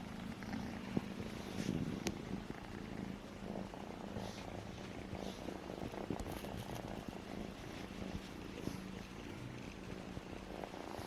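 Kitten purring steadily, a continuous low rapid rumble, with a few faint small clicks over it.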